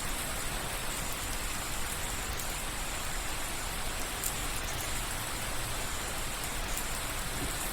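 Steady soft rain falling on a surface, an even hiss with faint scattered drips.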